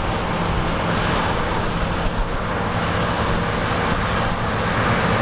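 Large diesel harvest machine running steadily at working speed, a constant engine hum under a dense mechanical rush.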